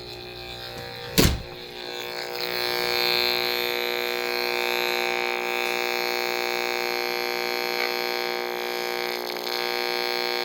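RF meter's audio output giving a steady buzz as it picks up the pulsed microwave emission of a running microwave oven. A single loud click comes about a second in.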